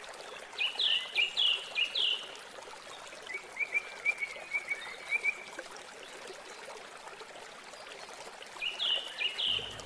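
A bird chirping in three short runs of quick, sweeping notes, over a faint steady hiss.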